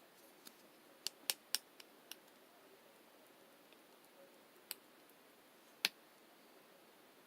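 Crunchy pearl slime, slime mixed with small pearl beads, being pressed and worked, giving scattered sharp crunchy clicks and pops over a faint hiss: a quick run of them in the first two seconds, then two more, the loudest near the end.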